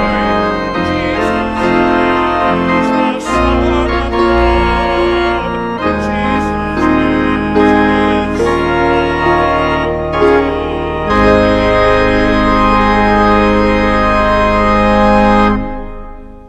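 Church organ playing a slow passage of chords over deep bass notes, ending on a long held final chord that is released near the end and fades away.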